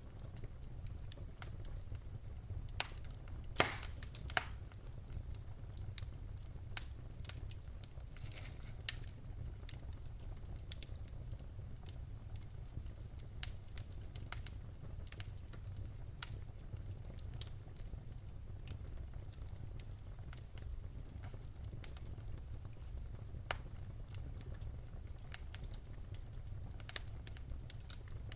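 Wood fire burning in a fireplace: logs crackling and popping irregularly over a steady low rumble of the flames, with a few sharper pops about three to four seconds in.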